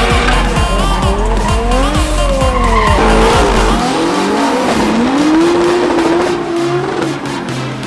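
Drift car engines revving up and down with tyres squealing and skidding. Music with a steady beat plays underneath and drops out about halfway through.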